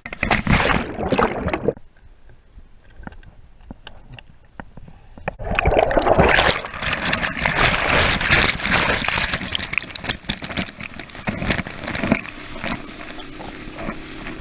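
Water sloshing and splashing close to the microphone, with a brief burst at the start and a longer, louder stretch through the middle. A steady low hum comes in near the end.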